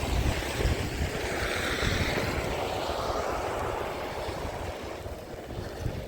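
A road vehicle passing by, its tyre and road noise swelling for about two seconds, then fading away, over steady wind buffeting the microphone.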